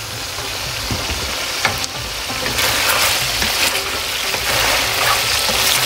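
Chicken pieces sizzling in hot oil in a wok, with the scrape and knock of a spatula stirring them. The sizzle grows louder about halfway through.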